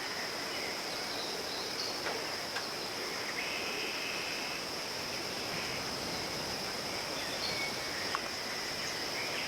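Forest ambience: a steady, high-pitched insect drone over an even hiss, with a few short bird chirps scattered through it.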